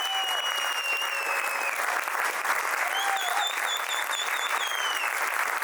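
Audience applauding after a song, with two long whistles over the clapping: one fading out about two seconds in, the second warbling from about halfway to near the end.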